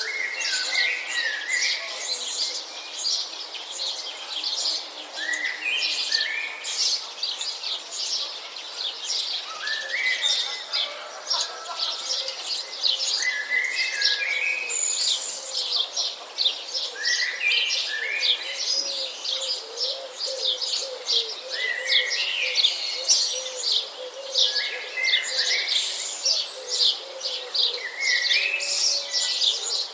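A chorus of small birds chirping continuously in high, quick notes. One bird repeats a short falling phrase of a few stepped notes about every four seconds.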